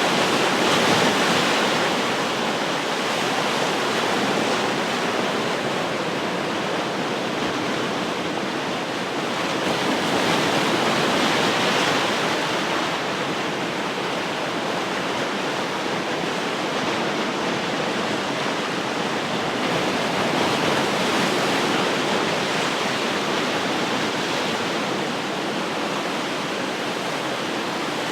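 Ocean surf washing steadily, with waves swelling a little louder now and then, and some wind.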